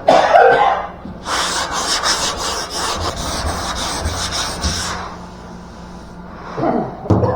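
Sandpaper, 120 grit, rubbed by hand back and forth over a car body panel in a run of quick scratchy strokes lasting about four seconds.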